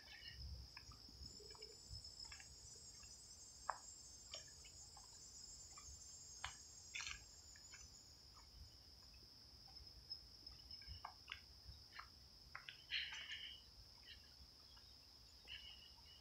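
Faint, steady high-pitched trilling of late-summer crickets in woodland, with a second, higher trill joining for several seconds early on. Scattered light ticks and crunches of footsteps on the trail sound over it.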